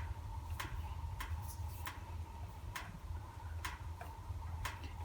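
Wood fire burning in a fireplace, crackling with sharp pops at slightly uneven intervals of about one a second over a low rumble.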